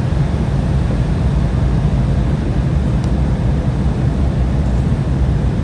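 Steady low rumble inside the cabin of an Embraer 175 regional jet on the ground after landing, its GE CF34 turbofans running as it taxis in.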